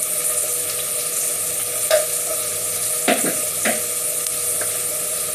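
Onions frying in a pan with a steady sizzle, with a few light knocks about two, three and nearly four seconds in.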